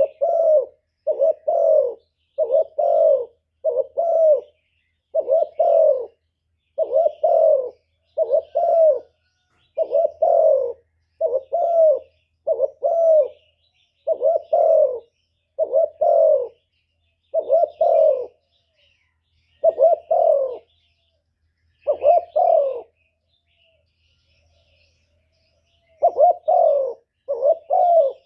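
Spotted dove cooing over and over, a two-part coo about once a second. It breaks off for a few seconds near the end, then resumes.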